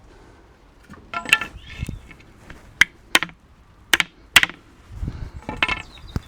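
Pieces of wood being handled and knocked together: about four sharp wooden clacks, with scraping and rustling between them.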